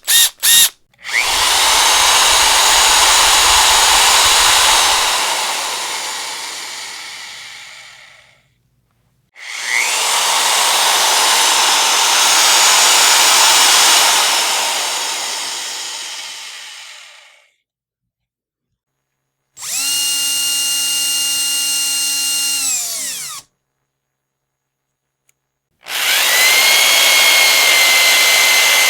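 Power drill run in separate bursts: a couple of quick blips, then two long rough runs of several seconds each that tail off gradually. After that comes a steady clean whine of a few seconds that drops in pitch as it stops, and another whine starts near the end.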